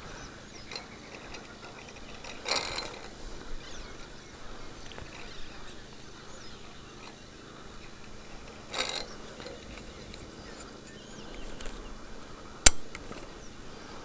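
Quiet lakeside background with faint bird chirps, broken by two brief rustles and one sharp click near the end, the click being the loudest sound.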